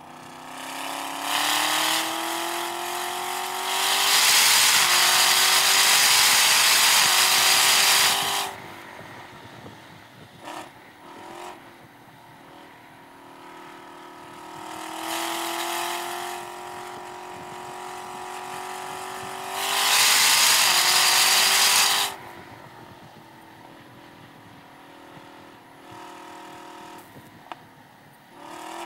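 Chevrolet Camaro ZL1 1LE's supercharged V8 under hard acceleration on track, twice: each pull rises in pitch and loudness for several seconds, then cuts off sharply as the driver lifts. The engine runs quieter at part throttle between the pulls.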